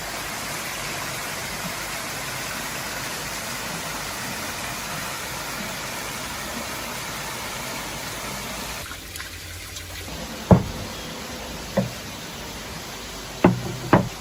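A steady rushing noise for about nine seconds, then it drops away and four sharp knocks follow near the end.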